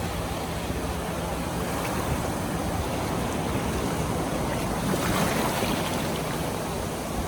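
Ocean surf washing on the beach as a steady rush, swelling a little louder about five seconds in.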